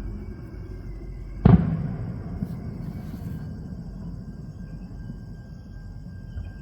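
A single firework shell bursting with a loud boom about a second and a half in, its low rumble echoing away over the next few seconds, over a steady low background rumble.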